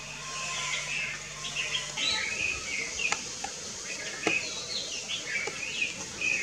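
Birds chirping over and over in short rising-and-falling notes, several a second, with a few sharp clicks in the middle.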